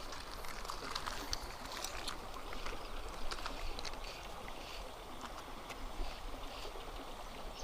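Steady hiss of moving river water and light breeze around a kayak, with a few faint small knocks.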